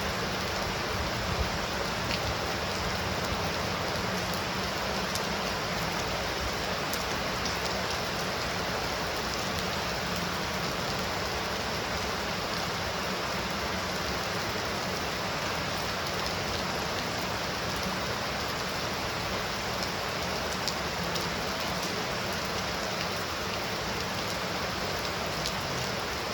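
Steady heavy rain falling, an even hiss with a few faint separate drop ticks.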